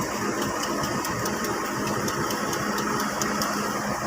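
Large heavy-equipment diesel engine running steadily, with a constant low hum.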